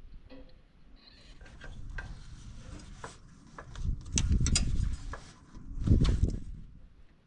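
Scattered clicks and rubbing of hands and tools handling wiring and metal panels, with two louder low rumbling swells about four and six seconds in.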